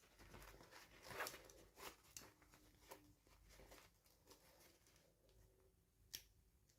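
Faint unboxing handling sounds: soft rustling with scattered light clicks and taps, and one sharper click about six seconds in.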